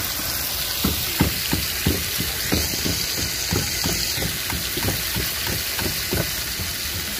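Hilsa fish cooking in a pot, sizzling with a steady hiss and frequent irregular pops and crackles, a few a second.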